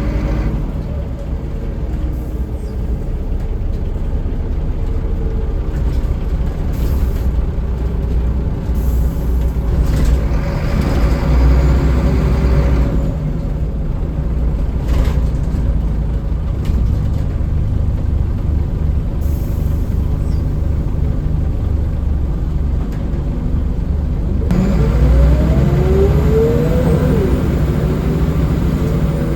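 Scania L94UB city bus driving, its engine and driveline running steadily with a strong low drone. Near the end a whine glides up and then down in pitch as the bus changes speed.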